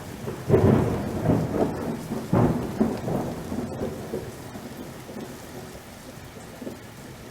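Thunder: a sharp crack about half a second in and another near two and a half seconds, each rolling on into a rumble that slowly fades, over steady rain.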